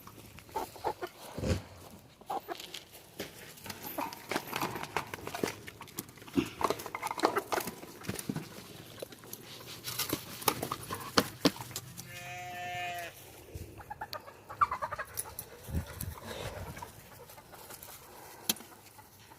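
A sheep bleats once about twelve seconds in: one wavering, pitched call. Scattered knocks and rustling run through the rest.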